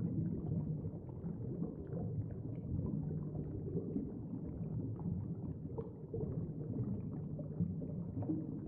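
Low, murky rumbling ambient background bed, like underwater ambience, steady throughout with its sound mostly in the low range.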